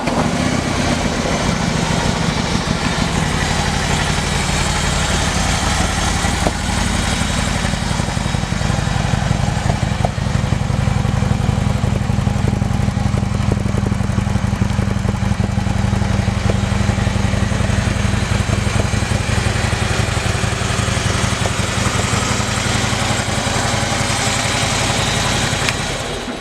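2015 Harley-Davidson Street Glide Special's 103 cubic inch V-twin idling steadily through a Screaming Eagle exhaust, then shutting off at the very end.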